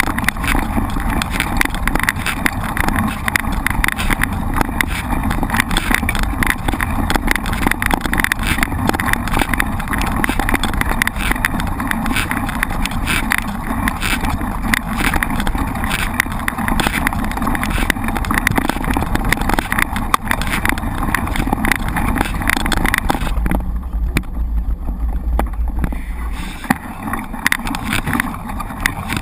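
Mountain-bike ride noise: wind rushing over the microphone and steady rattling from the bike on a rough trail, with a stretch of heavier, deeper wind buffeting for a few seconds near the end.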